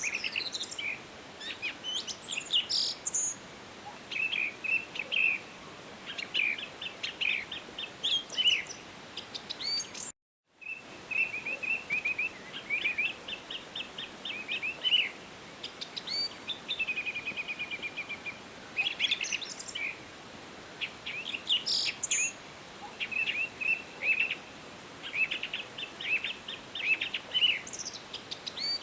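Several songbirds singing and calling, with rapid trills, short chirps and quick falling whistles overlapping one another over a faint steady background hiss. The sound cuts out completely for about half a second roughly ten seconds in.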